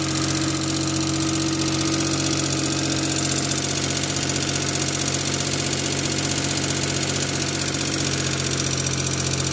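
Geo Metro engine idling steadily after being brought back to life, with lifter noise audible in the running.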